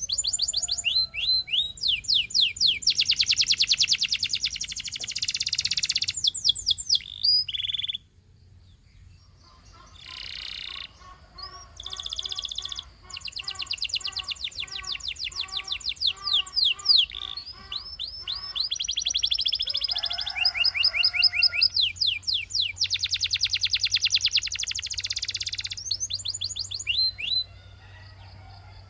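Canary singing: long fast trills and rolls of rapidly repeated high notes, with a short break about eight seconds in.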